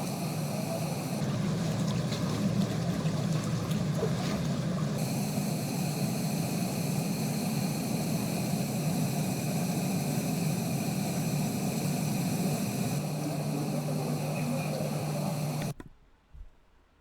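Steady rushing of flowing floodwater, with a steady hum over it, cutting off suddenly near the end.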